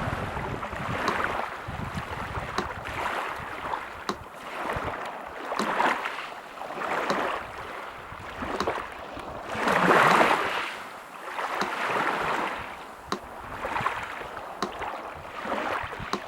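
Sea surf washing in and out in repeated swells, with a metronome ticking steadily about once every second and a half over it.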